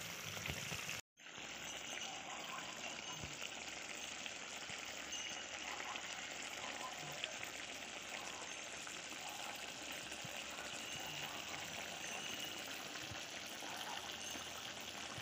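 Fish curry sizzling in a kadai: a steady frying hiss, broken by a brief dropout about a second in.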